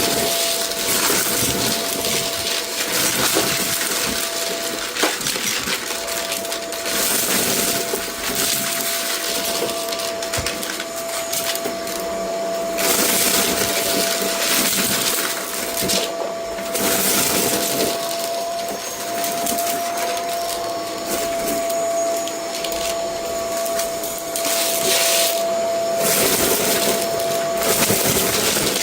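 Vacuum cleaner running with a steady motor whine and rushing air, rising in louder surges every few seconds as it is pushed back and forth over a rug. It picks up a scattered debris mix with small rattling clicks.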